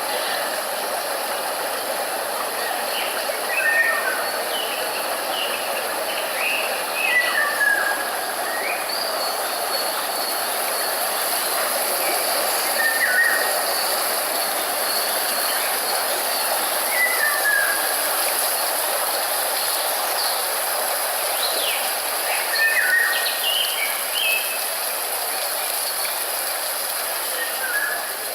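Steady rushing noise with a constant high hiss, and short bird chirps over it every few seconds.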